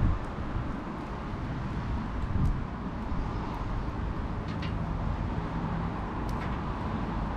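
Campfire burning outdoors: a steady low rumble with a few faint, scattered crackles.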